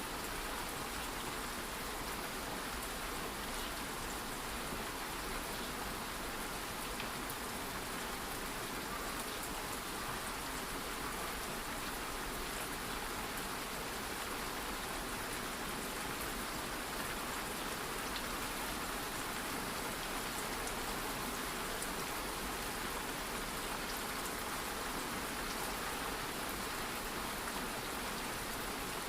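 Steady light rain falling, an even hiss with faint scattered drop ticks.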